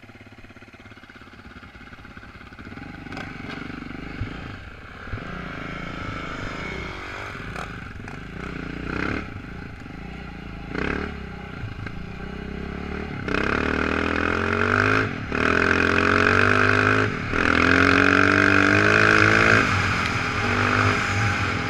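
Off-road motorcycle engine pulling away and revving, quiet at first and getting much louder about halfway through, its pitch climbing several times with brief dips between climbs.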